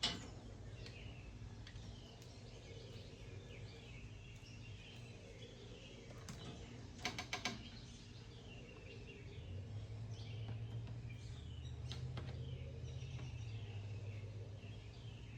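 Birds chirping in the background, with a quick cluster of a few clicks about seven seconds in and a low steady hum that grows louder from about ten seconds.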